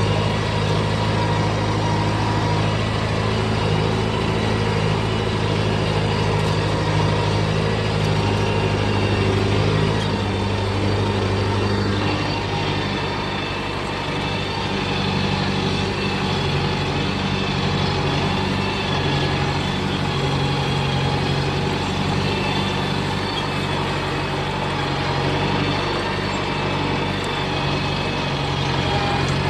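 Kubota tractor's diesel engine running steadily, with a slight dip in loudness about halfway through.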